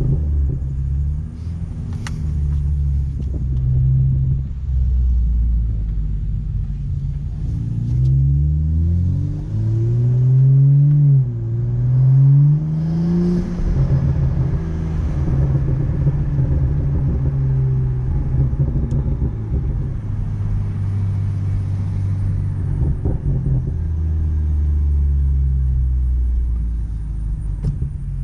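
2015 BMW M235i's N55 turbocharged inline-six running through a Fabspeed muffler bypass, giving a deep exhaust drone. About eight seconds in the engine note climbs in pitch three times in quick succession, then settles into a steady drone.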